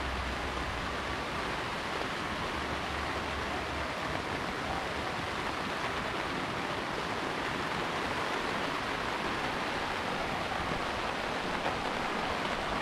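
Heavy rain falling steadily, an even hiss with no single drops standing out, and a low rumble underneath for the first few seconds.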